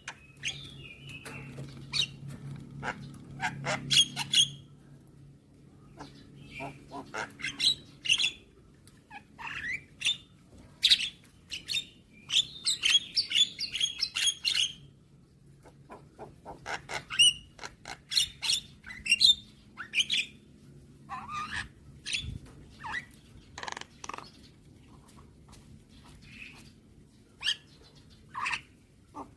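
Javan myna (jalak kebo) calling in rapid runs of short sharp chattering notes, clicks and a few whistled notes, broken by short pauses. A faint low hum sits under the first few seconds.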